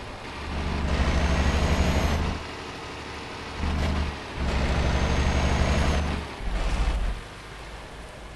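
Scania R560's V8 diesel engine working hard in several loud surges with short pauses between them, a thin high whistle over the longer pulls.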